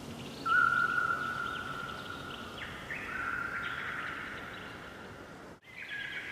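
Songbirds singing at dawn, their songs overlapping: long steady whistled notes with quick higher chirps and slurs over them. The sound breaks off for an instant near the end.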